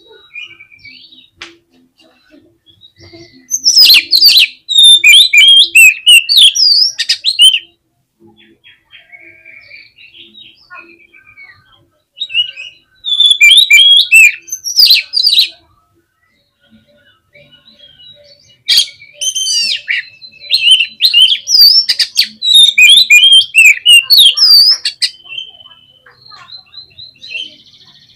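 Oriental magpie-robin singing loudly in three long bursts of rapid, varied whistles and chatters, with faint twittering between the bursts.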